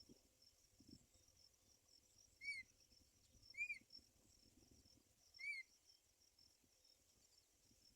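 Three short bird chirps, each a quick up-and-down note, spaced a second or two apart. Underneath runs a faint, steady high chirring of crickets.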